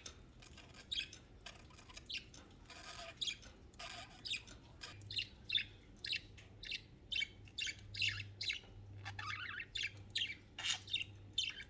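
Budgerigars chirping and warbling to one another in short, quick calls that come more often after the first few seconds.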